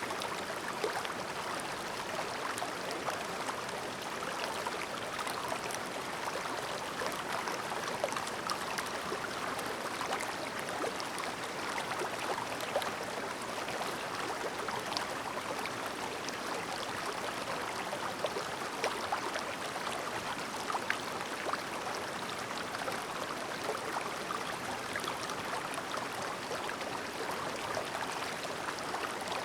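A shallow, clear mountain stream babbling steadily over rocks, with a dense patter of small splashes and gurgles.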